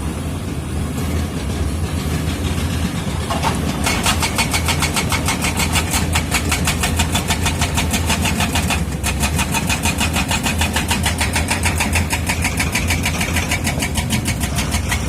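Komatsu D85E-SS bulldozer's diesel engine running steadily under work. About four seconds in, a fast, even clatter starts, the steel tracks moving, and keeps going with a short break near the middle.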